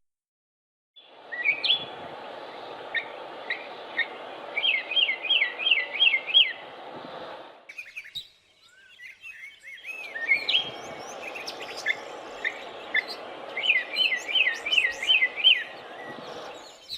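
Mockingbird singing: a varied string of chirps and whistles, with a quick run of about five repeated notes, over a steady recording hiss. The same stretch of song plays twice, with a short break about eight seconds in.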